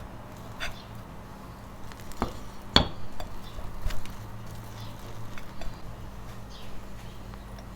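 Dishes or glassware clinking and knocking a few times, the sharpest clink just before three seconds in, over a low steady hum.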